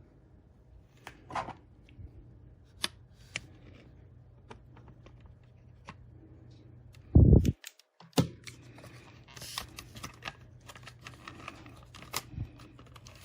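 Plastic clicks, snaps and scraping as the plastic case of a Seagate Backup Plus Hub drive enclosure is pried apart at its stuck clips, with one loud thump about seven seconds in and quicker clicking near the end.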